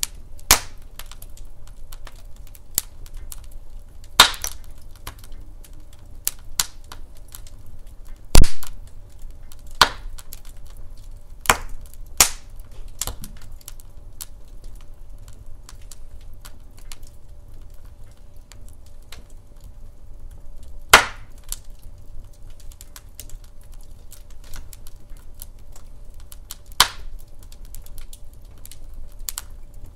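Wood fire in a fireplace crackling, with sharp pops of burning logs at irregular intervals, the loudest about 8 seconds in and again about 21 seconds in, over a steady low rumble.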